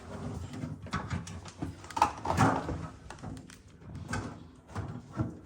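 Irregular knocks, clicks and rattles of parts and panels being handled inside a refrigerator's freezer compartment, with the loudest knocks about two seconds in.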